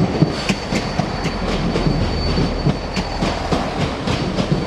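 Train moving through a station, its wheels clicking over rail joints about three to four times a second over a steady rumble, with a faint high whine in the middle.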